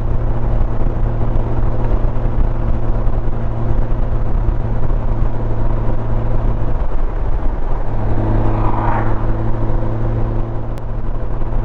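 Honda Gold Wing motorcycle cruising at steady highway speed: a steady engine hum over a constant rush of wind and road noise. The engine tone drops briefly about seven seconds in, then comes back stronger about a second later.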